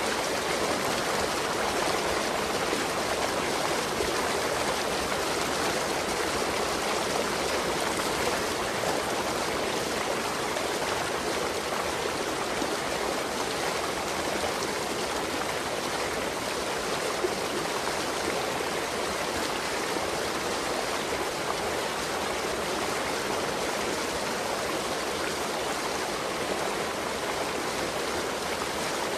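Waterfall: water falling and rushing, a steady, even hiss with no breaks.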